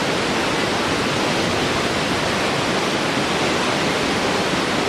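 Steady, even rushing of water, an unbroken nature ambience.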